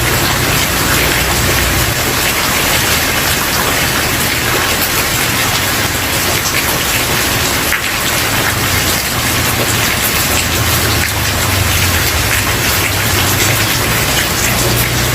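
Steady heavy rain falling on a wooden porch: a dense, even patter of drops with a low rumble underneath that swells and fades.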